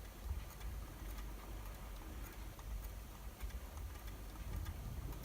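Quiet room tone: a low steady hum with faint, scattered ticks.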